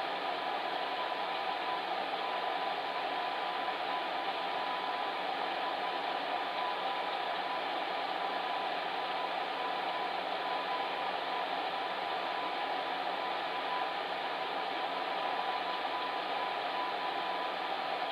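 Fan heater running: a steady whooshing blower noise with a faint constant hum, unchanging throughout.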